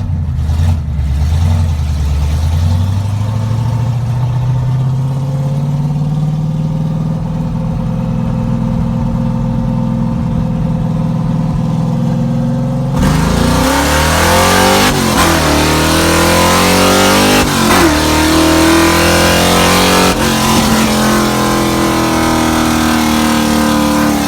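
Chevrolet ZZ430 small-block V8 in a second-generation Camaro pulling under acceleration, running on all cylinders with its misfire just repaired. Its pitch climbs steadily for about the first half. Then there is a sudden rise in rushing noise and loudness, and the revs rise and fall several times as it is driven through the gears.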